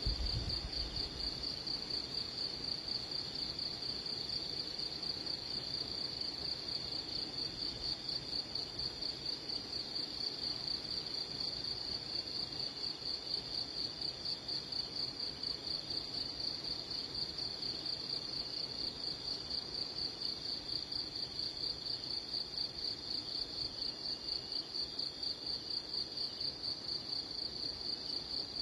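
A steady, high-pitched insect trill, like a cricket's, pulsing rapidly and evenly without a break.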